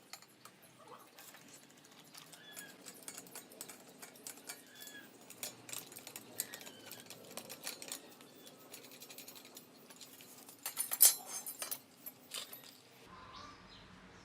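Irregular clicking and light rattling of small hard objects being handled, with a loud burst of clicks about eleven seconds in, and a few short bird chirps.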